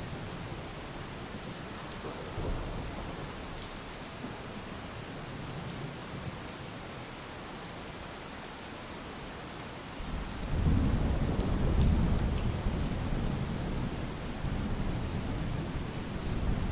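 Steady rain falling, with a low rumble of thunder swelling up a little past halfway and fading back over several seconds.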